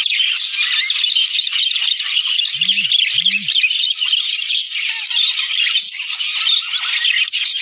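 A flock of budgerigars chattering and warbling continuously, many birds at once in a dense, unbroken chorus.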